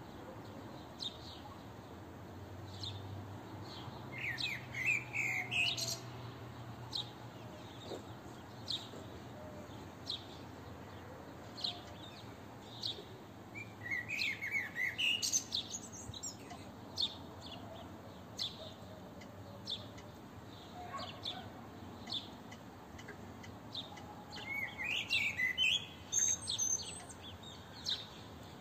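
Songbirds calling, with short high chirps every second or two. Three longer bursts of quick, falling song notes come about four seconds in, around the middle, and near the end.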